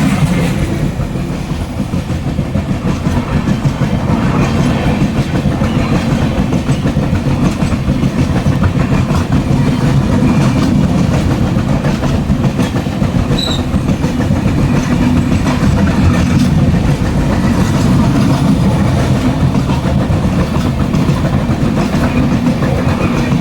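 Moving passenger train running at speed: a steady, loud rumble of wheels on the rails with continuous rattling and clatter.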